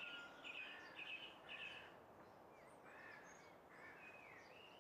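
Faint birdsong: a bird repeats a short chirping phrase about twice a second for the first two seconds, then scattered whistled notes follow, over a soft steady background hiss.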